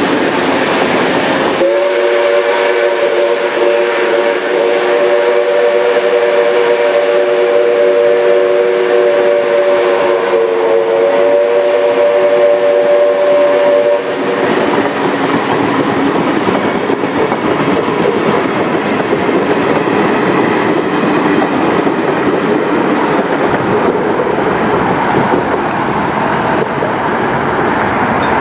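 Passenger train carriages rolling past, wheels clicking over the rail joints. From about two seconds in until about halfway through, a chord of several steady tones is held over the rolling noise, then stops abruptly, leaving the wheel and rail noise.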